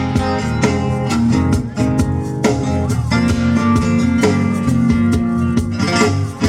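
Band music played live: guitar strumming with a steady beat, an instrumental passage with no singing.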